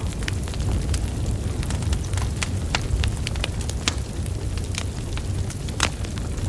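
Burning wood logs crackling, with frequent irregular sharp pops over a low steady rumble of flames. One louder pop comes near the end.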